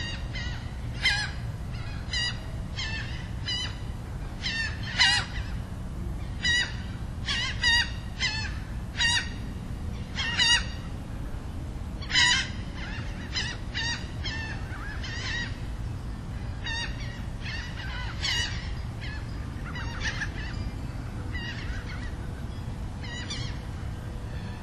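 Birds giving many short, harsh calls in quick succession, spaced unevenly, with a few louder ones among them, over a steady low rumble.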